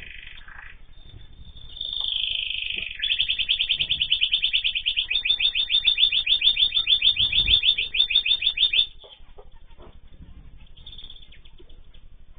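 A cage bird singing: a short high call, then a fast trill of rapidly repeated high notes lasting about six seconds that cuts off suddenly.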